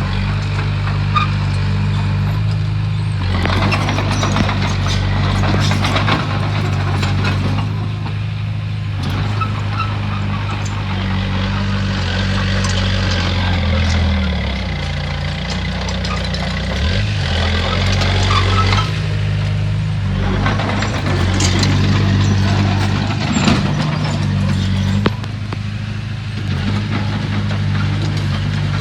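Komatsu bulldozer's diesel engine running steadily, with several stretches of a few seconds of clattering and scraping as the machine works, pushing rock and earth.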